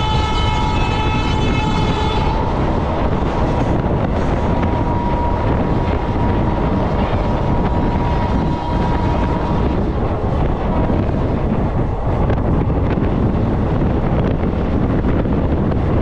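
Steady rushing noise of the Netaji Express (Kalka Mail) running at speed, with wind buffeting the microphone. A train horn is sounding at the start and cuts off about two seconds in.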